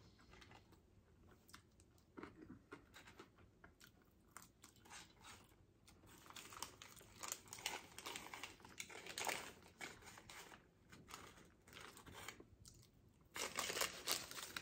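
Close-up chewing and crunching of McDonald's fries. Paper wrappers rustle and crinkle as they are handled and folded, loudest near the end.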